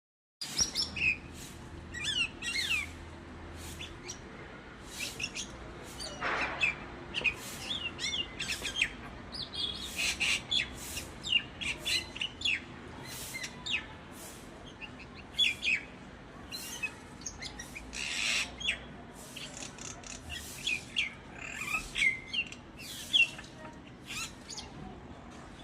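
Myna calling: a busy string of short chirps and downward-sliding whistles, with a couple of longer harsh squawks about six seconds and eighteen seconds in.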